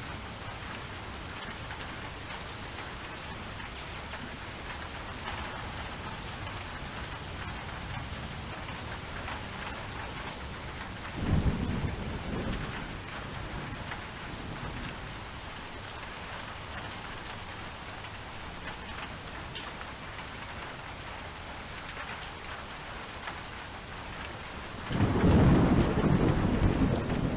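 Steady rain falling, with rolls of thunder: a short rumble about 11 seconds in and a longer, louder one near the end.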